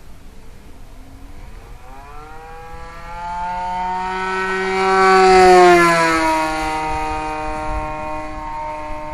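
ES-piped Syssa 30cc single-cylinder two-stroke gas engine on a 78-inch RC Extra 300, running at high throttle in flight. It grows louder to a peak a little past halfway, where its pitch drops slightly, then holds a steadier note.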